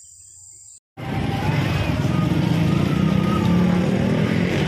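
A steady high insect trill, crickets, for about the first second, cut off abruptly. Then, after a moment's silence, dense road-traffic noise: vehicle engines running steadily with short tones above them.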